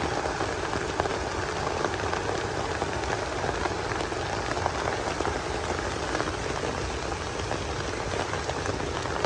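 Steady rain falling, with many single drops ticking sharply through it.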